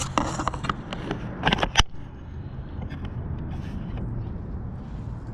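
Recoil starter cord of a Stihl BG55 handheld two-stroke leaf blower being pulled a few times in quick succession over the first two seconds, ending in a sharp click, without the engine catching. A low steady hum continues underneath.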